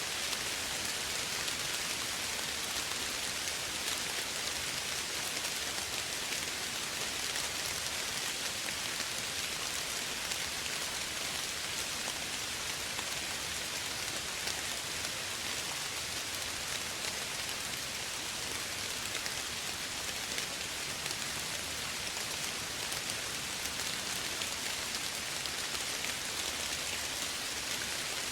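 Steady rainfall: an even hiss of soft rain pattering on a surface, with no change in intensity.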